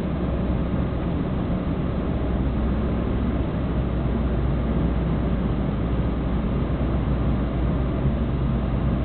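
Mercedes SL 280's straight-six engine running at a steady pace under way, mixed with road and wind noise.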